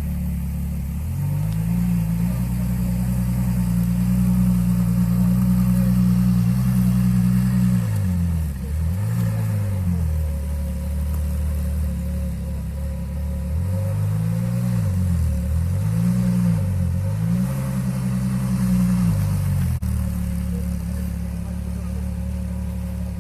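Ferrari LaFerrari Aperta's V12 engine revved up and held at raised revs, dipping and climbing again twice before dropping back to idle. It is then revved again with a few quick blips and held before settling back to idle near the end.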